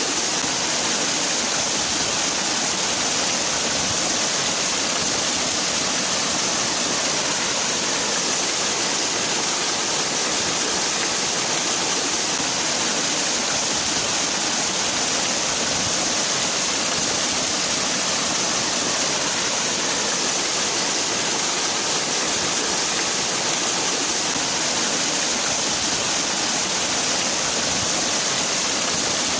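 Waterfall: water falling and splashing in a continuous, steady rush, with a bright hiss in the upper range.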